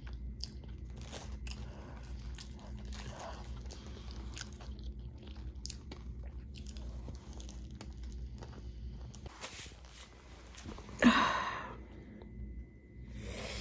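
A person chewing and biting into a chopped cheese sandwich, with small wet clicks and crunches over a steady low hum. Near the end comes a brief, louder vocal sound from the eater.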